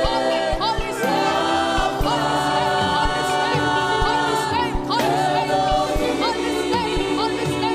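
Live gospel worship music: singing voices with vibrato over sustained chords and a steady beat about once a second.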